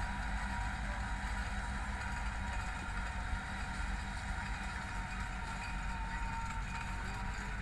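Massey Ferguson 385 tractor's four-cylinder diesel engine running steadily at a low, even speed.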